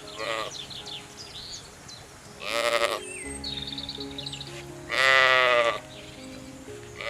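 Four drawn-out animal calls, each under a second, over soft background music, with a quick high chirping trill between the second and third call.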